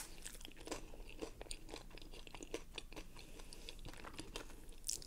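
Close-miked chewing of crunchy nacho tortilla chips: a steady run of small crackling crunches, with a sharp crunch right at the start.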